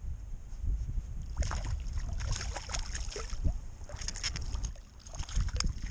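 Small splashes, drips and light knocks of water around a kayak, many short ones, starting about a second and a half in, over a continuous low rumble.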